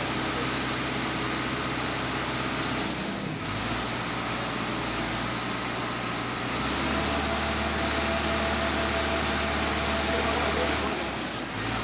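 Steady engine drone and road noise from a moving vehicle, with the low hum changing abruptly twice.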